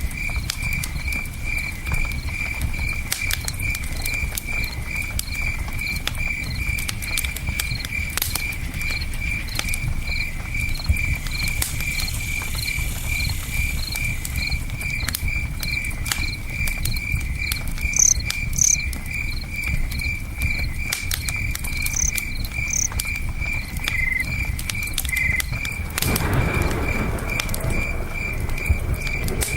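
Campfire crackling with scattered sharp pops, over a cricket chirping steadily about twice a second and a low rush of river water.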